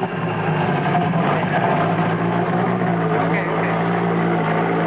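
Rally car engine running at steady revs: an even, droning engine note.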